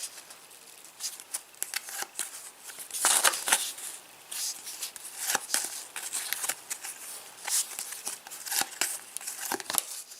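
Foil trading-card packet being torn open and crinkled, with cards handled: a run of irregular crackles and rustles, loudest about three seconds in.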